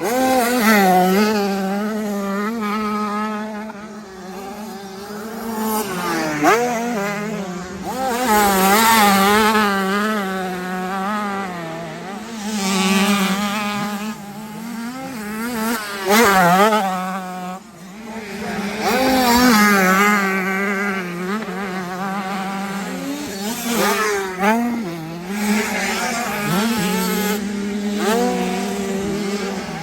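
Motocross bike engine revving up and down over and over, its pitch climbing and dropping with the throttle as it rides the track.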